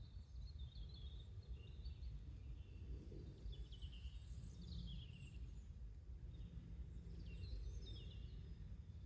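Small birds chirping faintly in three short bursts of quick, high twittering over a steady low outdoor rumble.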